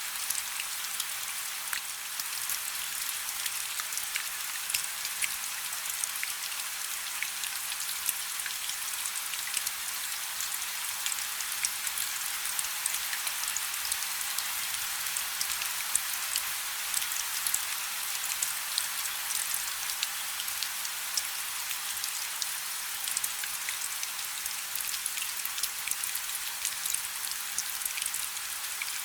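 Light rain falling steadily: an even, high-pitched hiss made of countless small drop ticks, with no change in strength.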